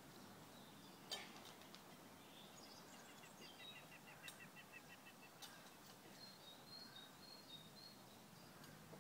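Near silence with faint birdsong: a quick series of short chirps a few seconds in, then higher, thinner notes later, and a single faint click about a second in.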